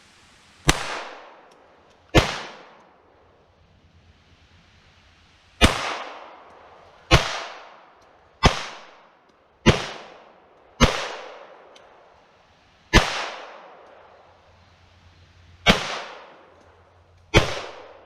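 Ruger Mark III 22/45 pistol firing .22 LR rounds: ten single shots, spaced irregularly about one to three seconds apart, each with a short echoing tail.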